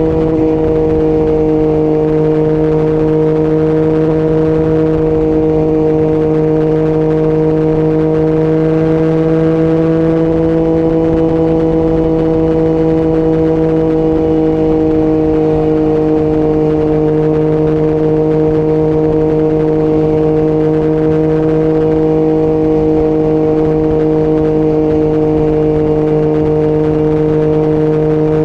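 Yamaha MT-09's three-cylinder engine running at a steady, fairly high rpm while the bike cruises, with an almost unchanging pitch, under low wind rumble.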